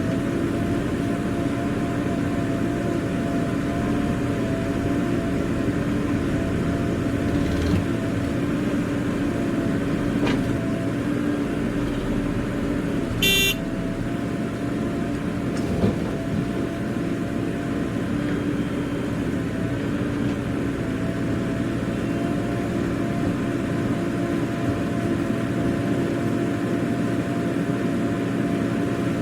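Heavy diesel engine running steadily at a constant speed, with a short horn toot about thirteen seconds in.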